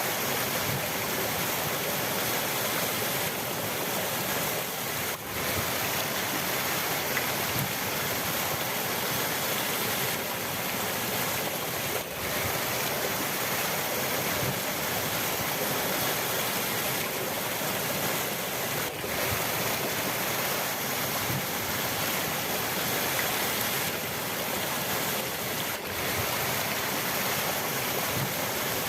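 River water rushing steadily, with a brief dip in level about every seven seconds.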